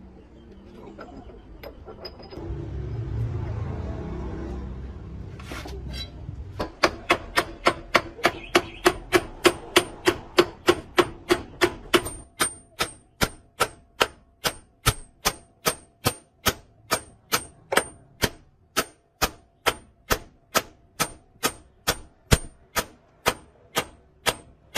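A hammer striking metal in a steady rhythm, about two to three blows a second, with a ringing metallic tone from about halfway on. A low rumble comes before the blows start.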